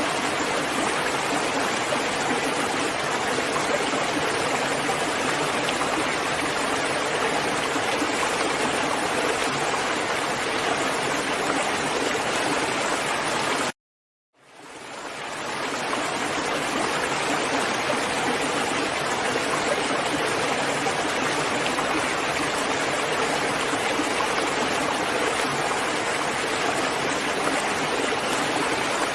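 Steady heavy rain, an even hiss. About halfway through it cuts off suddenly to silence for half a second, then fades back up over a couple of seconds: a join in the recording.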